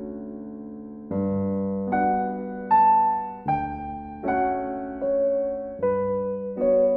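Background piano music: a slow run of sustained chords, each struck and left to fade, with a bass note under some of them.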